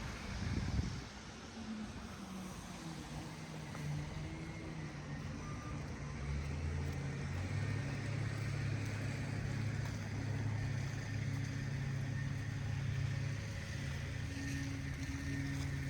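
A motor vehicle's engine running close by, a low steady drone that grows louder a few seconds in and then holds, over steady outdoor street hiss. A brief low thump comes just under a second in.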